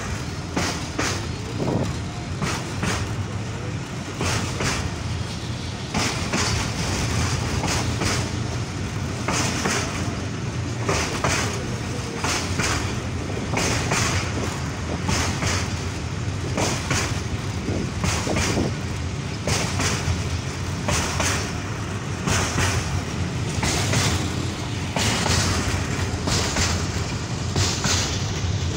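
Passenger train running at speed, heard from beside an open coach door or window: a steady rumble of wheels on the track and rushing air, with frequent knocks and clacks from the wheels and coach.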